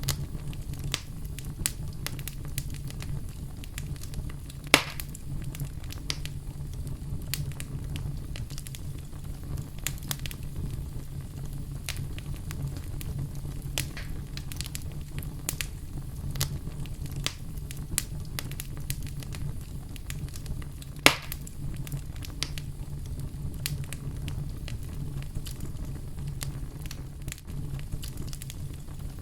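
Wood fire burning in a fireplace, with a steady low rumble and constant small crackles, and two loud sharp pops, about five seconds in and again about twenty-one seconds in.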